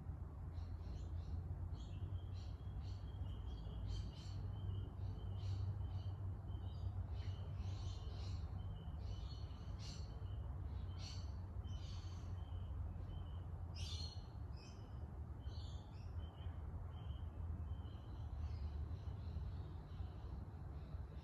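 Mistral 1510 ceiling fan running with a steady low hum, while birds chirp over it again and again in short high calls.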